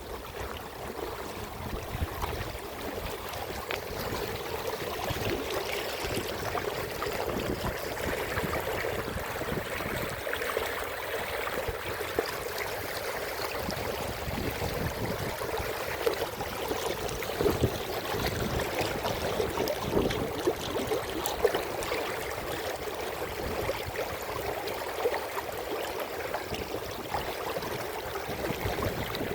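Running water flowing steadily, a continuous even rush with fine crackling splashes.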